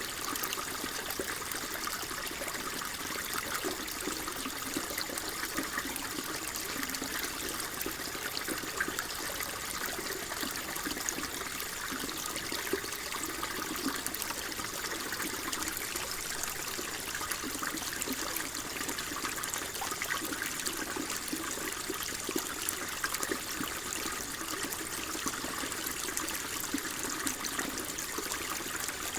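Gently flowing water, a steady babbling trickle like a small stream, with a fine bubbling crackle throughout.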